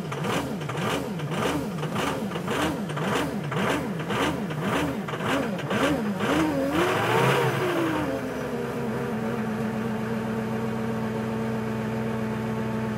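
Ford Powerstroke diesel cranking slowly in extreme cold, the starter labouring in an uneven pulse about twice a second, then catching about seven seconds in with a rising rev and settling into a steady idle: a cold start at −36 °C that succeeds after an extended glow-plug cycle.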